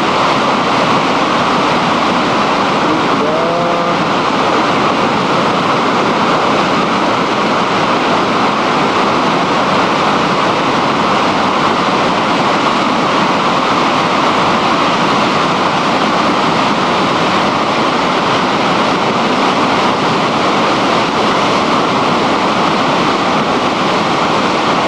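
Matilija Creek in flood below the dam: a loud, steady rush of high, fast floodwater.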